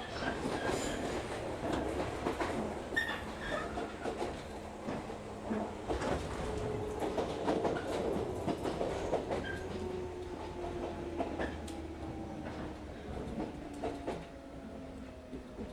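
Local electric train on the Shinano Railway Kita-Shinano Line heard from inside the car as it runs along the track, with rumbling and clicks of the wheels over the rails. Through the second half a faint whine slowly falls in pitch and the running sound eases, as the train slows.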